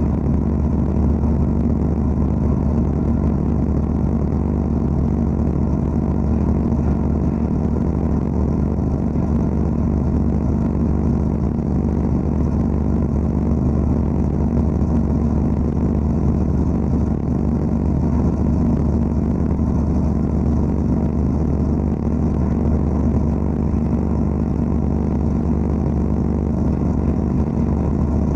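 Vapour-blasting cabinet running steadily: a constant low machine hum under the wash of the water-and-abrasive spray, with no breaks or changes.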